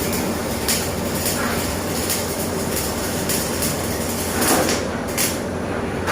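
Electric arc welding on a corner joint: a steady hiss with irregular sharp crackles. The high hiss thins about five seconds in.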